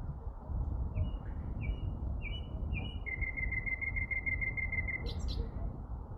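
A songbird singing: four short slurred notes, then a fast trill of about ten even notes, ending in two sharp high chips, over a steady low rumble.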